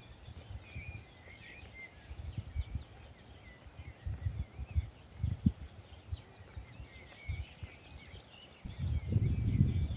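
Small birds chirping and twittering in the background, with low gusts of wind buffeting the microphone that grow louder near the end.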